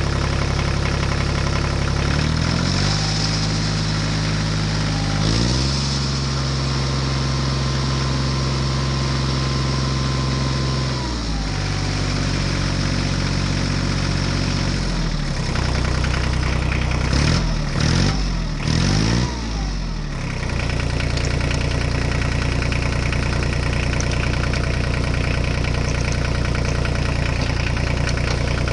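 Engine sound revving up and down in steps several times, with a quick rise and fall of revs in the middle, then settling into a steady idle.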